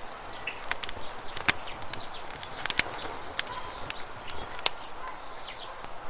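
Campfire crackling with irregular sharp pops over a steady rush of running water, with a few short bird chirps.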